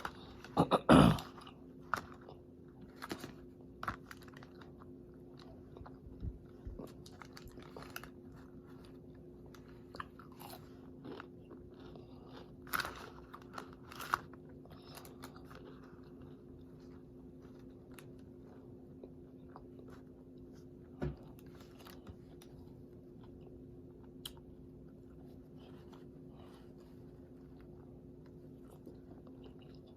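A person biting into and chewing a crispy fried chicken sandwich close to the microphone, with scattered crunches; the loudest bite comes about a second in. A steady low hum runs underneath.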